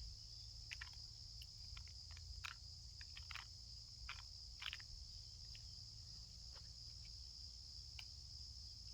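Faint outdoor ambience: a steady high-pitched insect chorus, with scattered light clicks and a low rumble underneath.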